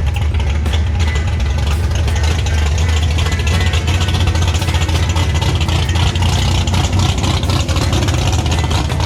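Car engine running with a loud, steady low exhaust rumble.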